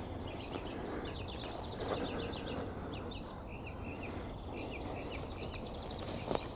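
Small birds chirping in quick runs of short, repeated notes, several calls overlapping, over a steady outdoor background hiss.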